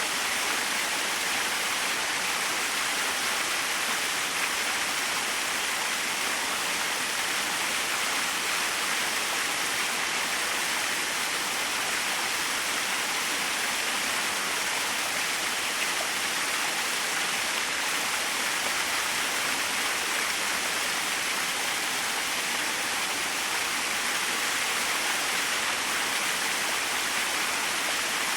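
Small waterfall splashing: a steady, even rush of falling water, brighter than deep.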